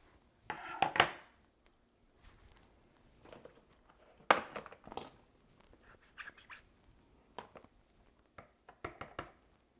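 Cardstock being handled on a craft table, with soft paper rustle and a scatter of sharp clicks and taps from paper-crafting tools, the loudest about halfway through and several more close together near the end.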